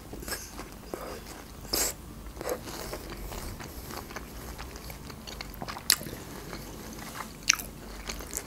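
Close-miked mouth sounds of a person chewing a piece of melon, with scattered wet, crisp clicks, two of them sharper about six and seven and a half seconds in.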